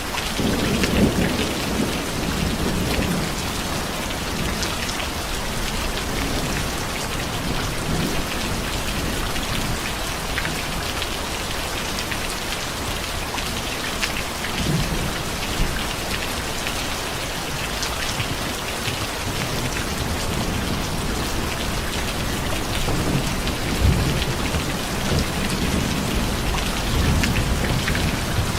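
Steady heavy rain falling, with low rumbles of thunder swelling about a second in and again through the last several seconds.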